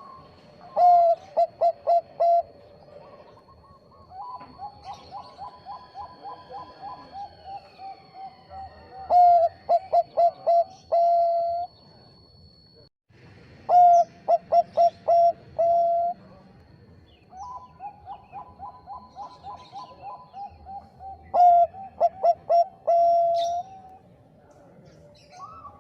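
Zebra doves (Bangkok perkutut) cooing. Four loud phrases, each a quick run of staccato coos ending in a longer held note, alternate with softer, faster runs of cooing. A thin steady high tone sounds in the background through the first half.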